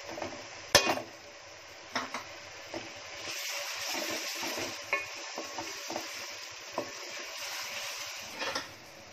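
Green chillies and onions sizzling in hot oil in an aluminium pot while a wooden spoon stirs them. The spoon knocks against the pot a few times, loudest just under a second in, and the sizzle grows a little louder from about three seconds in.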